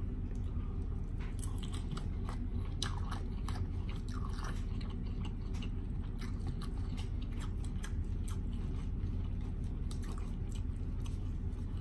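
A man chewing a mouthful of spicy omelet up close: many small wet clicks and smacks of the mouth, irregular throughout, with the odd tap of a metal fork on the plate. A steady low hum runs underneath.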